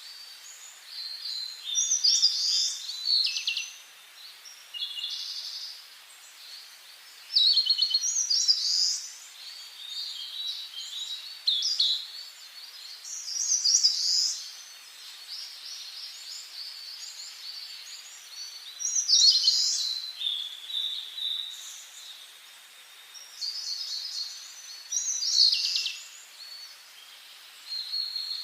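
Wild songbirds singing high, quick phrases of a second or two, repeated every few seconds, over a faint steady outdoor hiss.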